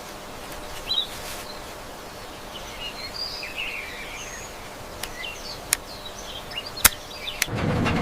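Outdoor ambience with birds chirping, and several sharp clicks in the second half, the loudest about seven seconds in.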